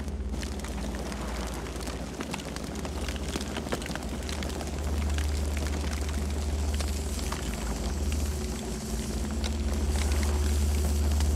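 Campfire burning: irregular crackles and sharp pops from the burning wood over a steady low rumble of the flames.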